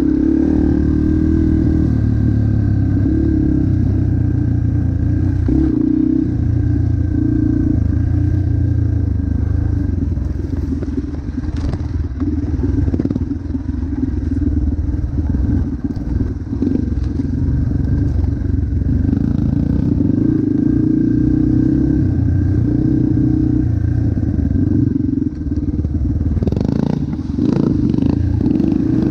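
Motocross bike engine running hard, its pitch stepping up and down as the throttle opens and closes, with rattling and clattering from the bike over rough ground. A cluster of knocks comes near the end.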